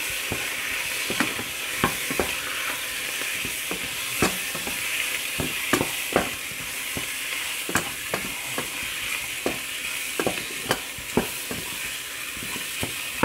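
Chicken frying in oil in a non-stick pan, a steady sizzle, while a wooden spatula stirs it in with curry powder and pepper, with irregular scrapes and taps of the spatula against the pan about once or twice a second.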